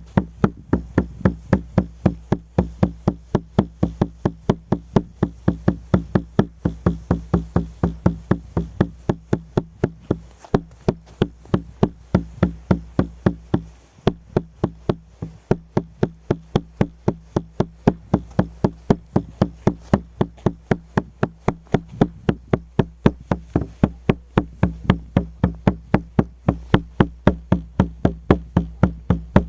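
Shaman's frame drum (buben) beaten in a steady rhythm, about three strokes a second, each with a low booming ring. The beat falters briefly about halfway through, then carries on.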